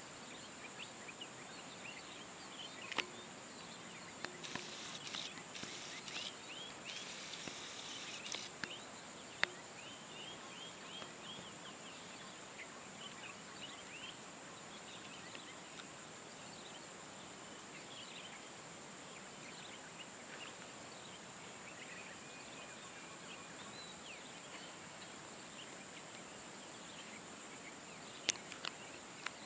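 Outdoor nature ambience: a steady high insect drone, with many short bird chirps scattered throughout and a few sharp clicks.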